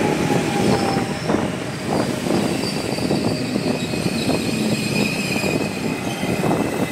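Passenger train rolling into a station, its wheels clattering over the rails in a dense, uneven run, with a thin high squeal over it. A faint falling whine fades out about a second in.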